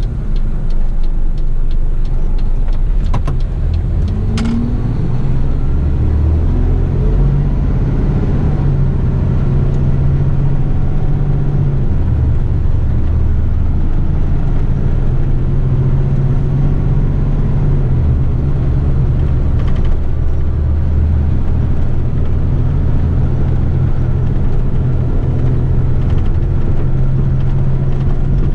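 Diesel engine of an eight-wheeler twin-steer waste truck running on the road, heard from inside the cab, its pitch rising as it accelerates about four to six seconds in, with a few short clicks around then.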